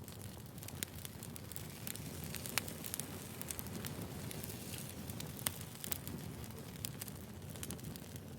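Burning firewood crackling: a steady low rush of flames with sharp pops and snaps scattered irregularly, two of them louder, about a third and two thirds of the way through.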